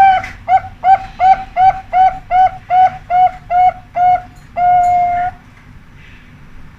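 Zebra dove (perkutut) cooing: a run of about eleven short notes, about three a second, closing on one longer held note, the end phrase that fanciers call the ujung.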